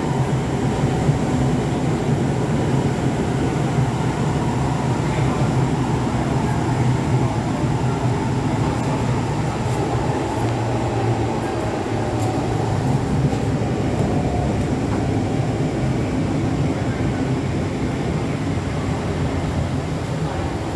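Onboard running noise of an SMRT C651 metro train in motion: a steady, even rumble with a faint steady hum above it.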